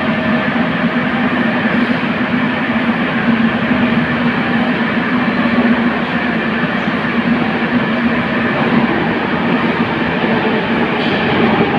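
Metro train running into an underground station: a steady, loud rumble of wheels on rail with a constant low hum.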